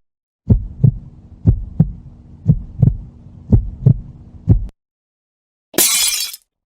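Heartbeat sound effect: five double thumps, lub-dub, about one a second over a faint low hum. A brief hissing burst follows near the end.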